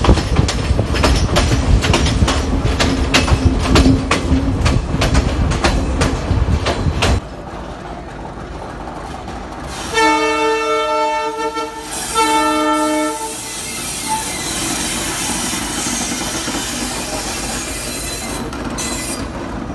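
Riding in a moving passenger train: steady clatter of the carriage wheels over the rail joints with wind noise, cutting off suddenly about seven seconds in. Then a diesel locomotive horn sounds twice, a long chord and a shorter one, followed by the steady rolling noise and hiss of a slow train of wagons passing.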